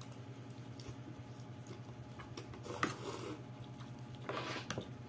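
Close-up eating sounds of thick lomi egg noodles: wet slurping and chewing, with a sharp click about three seconds in, over a steady low hum from an electric fan.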